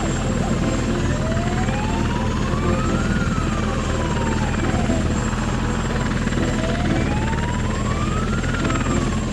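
Cartoon chase sound effects: a police siren slowly wailing up and down twice over a steady low mechanical drone.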